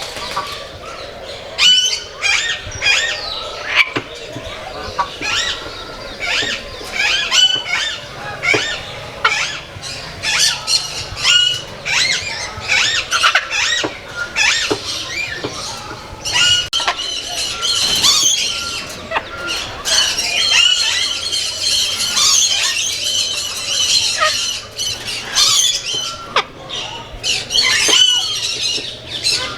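Many aviary birds calling at once: a steady run of short, sharp squawks and chirps that thickens into a dense chorus past the halfway mark.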